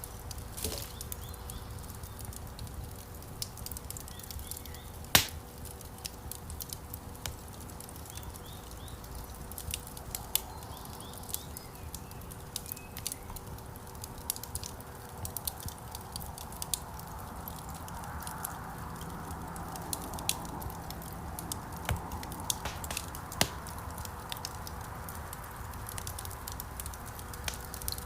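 Wood fire crackling in a fireplace: frequent sharp snaps and pops from the burning logs, one much louder pop about five seconds in, over a low steady rumble of the flames.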